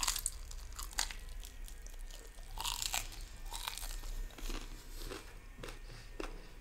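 Close-miked crunchy chewing of a deep-fried mutton momo, a bite into the crisp cornflour crust at the start, then irregular crackly crunches as it is chewed slowly. The crust is hard and takes a long time to chew.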